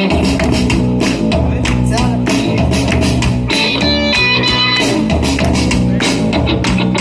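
Live rock band playing an instrumental passage: guitar over bass and a drum kit keeping a steady beat.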